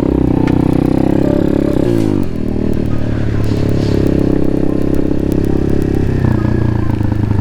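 Pit bike engine running steadily, its revs dropping briefly about two seconds in before holding steady again.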